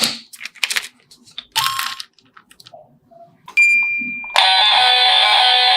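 A few faint rustles, then a single bright electronic ding that fades, followed about a second later by steady electronic music starting abruptly.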